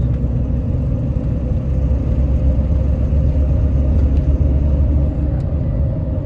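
Lifted pickup truck driving: a steady low engine and road rumble that swells for a few seconds in the middle, then eases.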